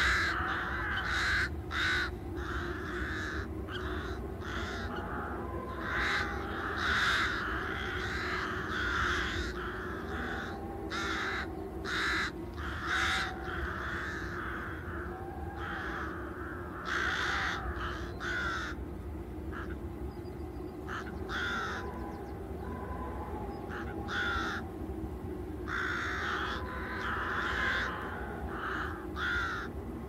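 Wild birds calling: many short, harsh calls, some single and some in quick runs, over a steady low rumble.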